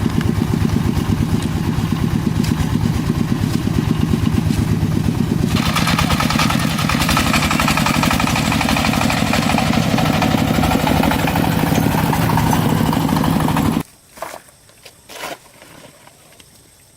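An engine running steadily with a fast pulsing beat, its sound growing brighter about five seconds in. It cuts off abruptly near the end, leaving a few faint knocks.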